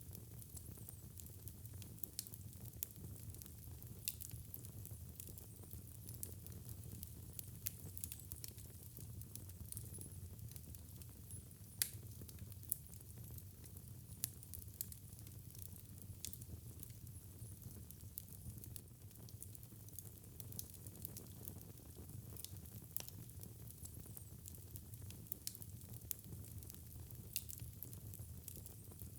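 Fire burning in a fireplace, crackling with frequent irregular sharp pops over a low steady rumble; one pop about twelve seconds in stands out as the loudest.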